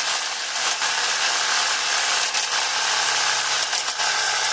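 A handheld power tool running steadily on metal bus bar stock, a loud, even noise with a faint low hum beneath it.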